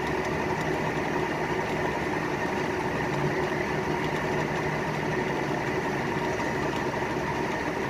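Vehicle engine idling steadily, an even hum with no revving.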